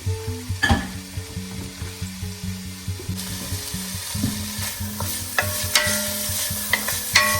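Diced vegetables sizzling in hot olive oil in a pan while a utensil stirs and scrapes them, with sharp clicks now and then. The sizzle grows louder about three seconds in.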